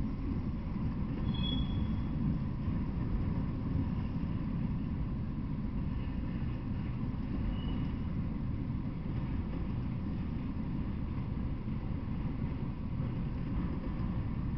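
Freight train of autorack cars rolling past: a steady low rumble of wheels on rail, with two brief faint high squeaks, about a second and a half in and near eight seconds.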